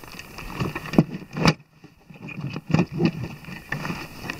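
Gear and tools being handled and packed back into motorcycle luggage: irregular knocks, clicks and rustling. There is a sharp knock about a second and a half in, then a brief hush.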